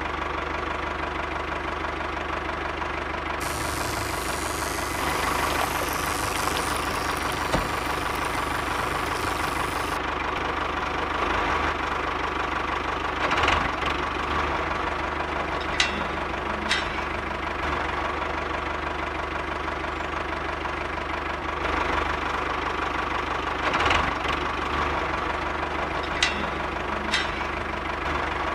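An engine running steadily at idle with a knocking beat, like a small diesel tractor, as it drives a model water pump, with a few short clicks.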